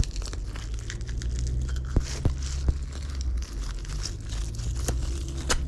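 Rustling and crinkling handling noise with a few sharp clicks, over a steady low rumble.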